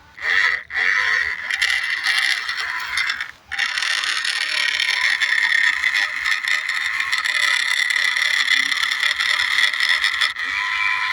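Remote-control New Holland toy tractor's small electric motor and plastic gearbox whining steadily as it drives over dirt, with gear rattle and scraping. The whine cuts out briefly about half a second in and again about three and a half seconds in.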